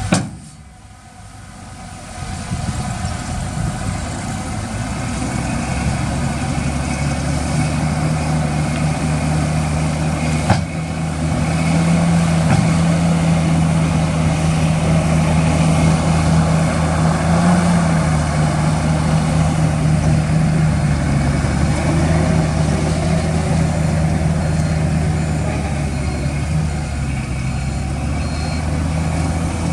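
Diesel engine of heavy earthmoving machinery running steadily under load, growing louder over the first ten seconds or so, with a short click about ten seconds in.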